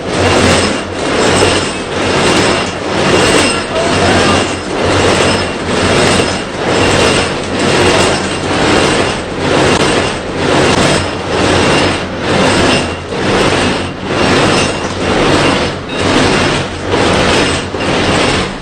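Heavy-haul truck running under a heavy load, its engine droning steadily beneath a regular whooshing pulse that comes about once a second.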